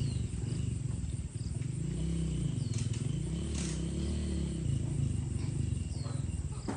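Tractor engine running with a rapid low rumble; its pitch rises and falls a couple of times around the middle.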